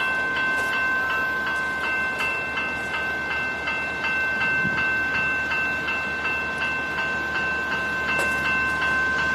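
Level crossing bell ringing continuously: a rapid, even ding about three times a second over a steady ringing tone.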